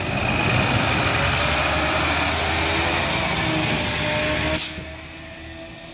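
Freightliner 108SD garbage truck running loudly. About four and a half seconds in there is a short hiss, and then the noise drops off sharply to a quieter run.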